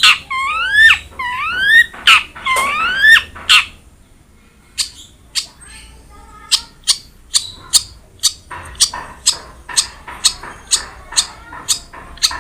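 Long-tailed shrike (cendet) singing: three loud whistled calls that rise and loop back in the first few seconds, then after a short lull a run of sharp, short chirps at about three a second.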